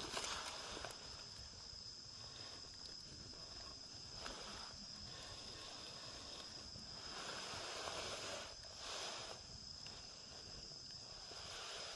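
Insects trilling steadily in one high, unchanging tone. A few louder hissing swells rise over it, the strongest about two-thirds of the way through.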